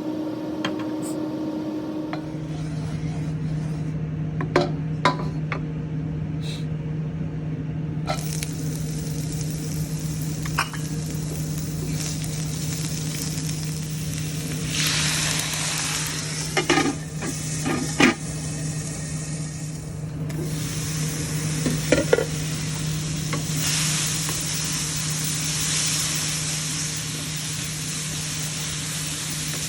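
Food sizzling in a hot pan as it is stir-fried, the sizzle growing louder about eight seconds in and swelling now and then, with a few sharp knocks of the utensil against the pan. A steady low hum runs underneath.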